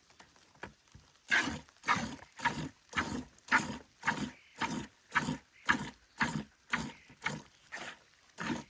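Milk squirting into a pail as a cow is hand-milked, in a steady rhythm of about two squirts a second, faint at first and stronger from about a second in.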